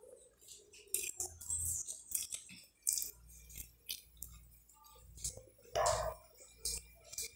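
Close-up chewing and lip-smacking while biting meat off a stewed pork rib held in the hand: a run of short, wet mouth clicks and smacks, with a louder mouth sound about six seconds in.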